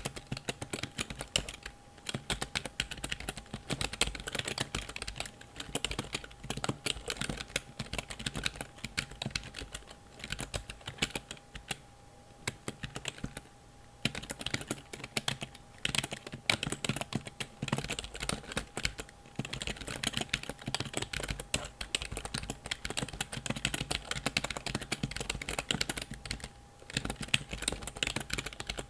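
Computer keyboard keys clicking under fast typing, in quick runs broken by short pauses.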